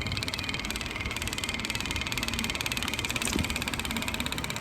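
Steady rolling rumble and rattle of a bicycle in motion, with a fast, even pulsing.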